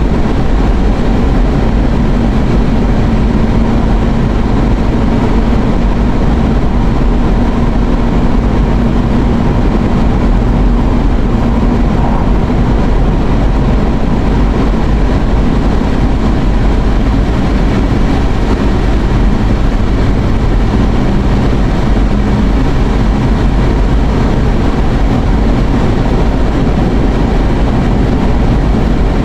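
Steady road and engine noise inside a moving car's cabin, loud and unbroken, with a low hum.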